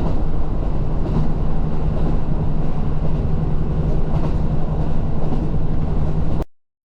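Diesel train running, a steady rumble with a constant low hum. It cuts off abruptly to silence about six and a half seconds in.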